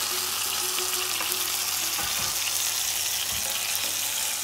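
Onion, tomato and herb masala with fresh coriander sizzling steadily as it fries in a pan, with two soft knocks about halfway through.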